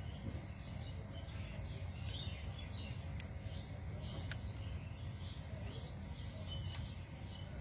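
Faint small-bird chirps scattered over a steady low background hum, with two sharp clicks about a second apart a little past the middle.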